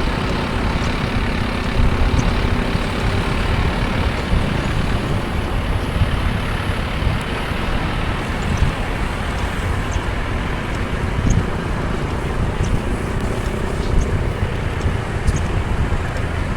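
Steady road and traffic noise from a car driving on rain-wet streets, with tyres hissing on the wet road. Faint, scattered short ticks run through it.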